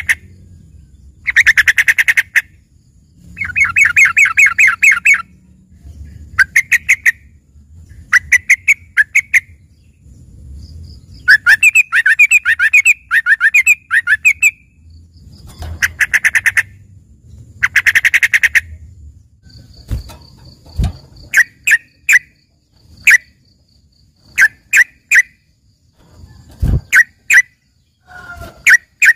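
Yellow-vented bulbul (trucukan) singing a loaded 'isian' song that sounds like a greater green leafbird's: rapid trilled phrases of about a second each, repeated every couple of seconds, changing about two-thirds through to short sharp chip notes in quick groups. Two dull thuds come in the latter part.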